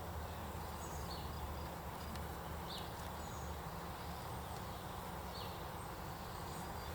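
Steady hum of honey bees around an open hive, with a bird's short chirp repeating every second or two.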